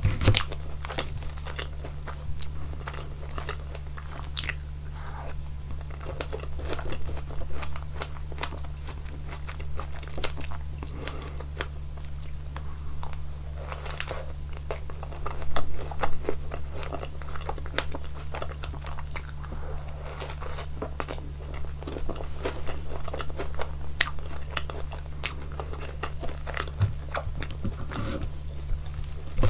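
Close-miked eating: biting into and chewing a waffle topped with strawberries and whipped cream, with many small crunches and crackles and a louder run of bites about halfway through.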